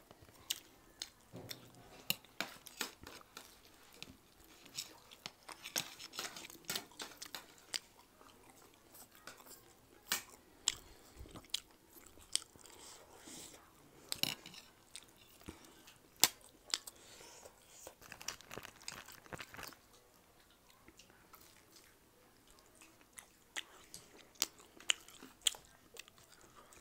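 Close-miked chewing and biting of momo dumplings, chow mein and fried shaphaley, with irregular sharp clicks and crunches.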